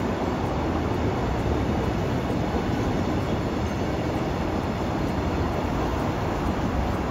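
A train running past, a steady, even noise heaviest at the low end, with no horn or separate wheel clacks standing out.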